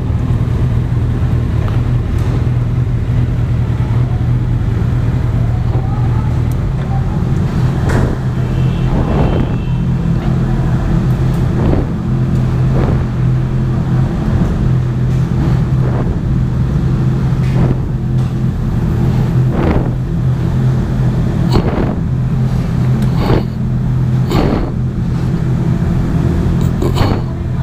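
Motorcycle engine running steadily at one even pitch, with short knocks every second or two.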